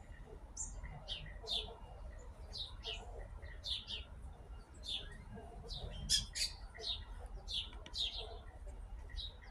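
Birds calling with short, high chirps, about two to three a second, over a low wind rumble.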